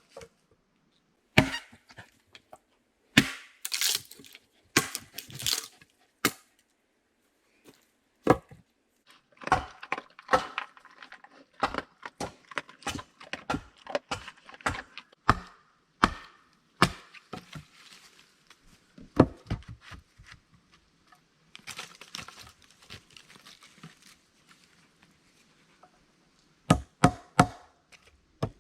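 Hand tools working wood: irregular sharp chops and knocks, some in quick pairs, with stretches of rougher scraping in between.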